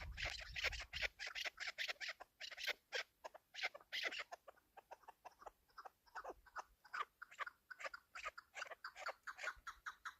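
Chukar partridge calling: a long run of quick, clucking chuk notes, several a second. The notes are crowded and harsh in the first few seconds, then come as more separate notes.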